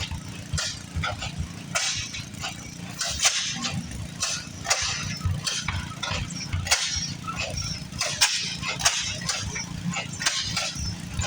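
Antique engines running: a steady low rumble with frequent, irregular sharp clicks and knocks.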